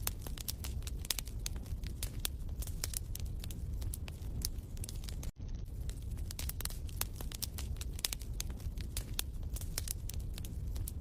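Wood fire crackling in a fireplace: irregular sharp pops and snaps over a low steady rumble of the flames, with a brief break about five seconds in where the looped recording restarts.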